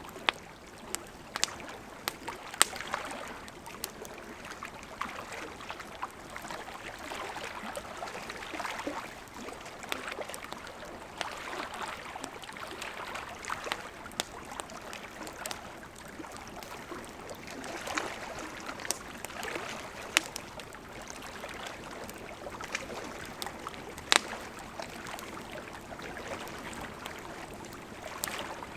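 Wood campfire crackling, with irregular sharp pops and snaps, over the steady rushing and lapping of a flowing river.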